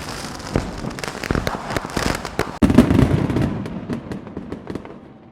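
A rapid string of sharp pops and crackles, loudest about two and a half seconds in, then thinning out and dying away near the end.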